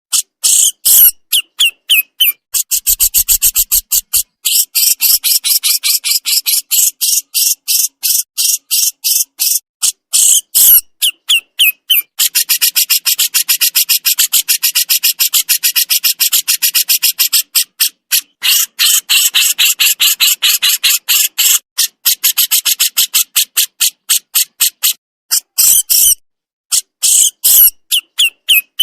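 Burung jenggot (Javan jenggot bulbul) giving its harsh 'besetan' rattle: long runs of fast, scratchy, high notes, many a second, broken by brief pauses.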